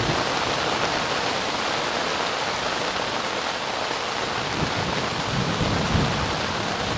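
Heavy rain coming down steadily on a tent, with a low rumble swelling about five seconds in.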